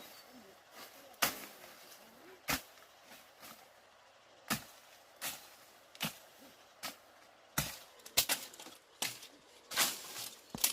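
Sharp knocks from repeated hand-tool blows, about a dozen at an uneven pace, with a quick cluster of louder strikes near the end.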